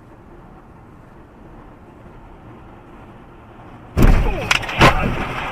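Quiet road noise, then about four seconds in, a sudden loud crash of vehicles colliding, with two more sharp impacts within the next second and a clatter of debris after.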